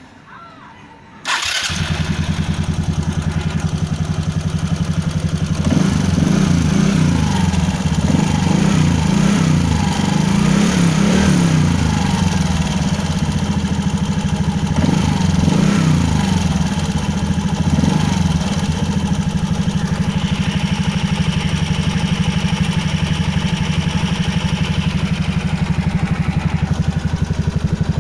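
Suzuki Hayate scooter's single-cylinder engine starting about a second in, then running steadily. The running wavers unevenly for a stretch in the middle before settling back to a steady idle.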